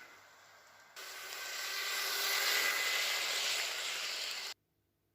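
Hornby model train, a J50 tank locomotive hauling coaches, running on the track close by: an even rushing hiss of motor and wheels with a faint steady whine. It comes in suddenly about a second in, builds, and cuts off abruptly near the end.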